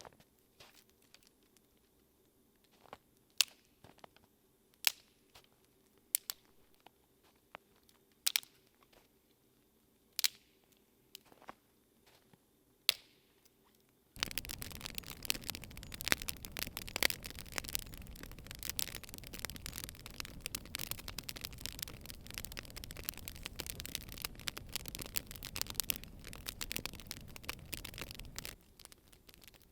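Wood fire popping, with single sharp cracks every second or two. About fourteen seconds in this gives way abruptly to dense, continuous crackling, which cuts off just as suddenly near the end.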